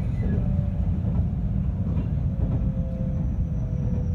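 Inside a 521 series electric train: steady low rumble of the wheels and running gear, with a faint motor whine that slowly falls in pitch as the train slows.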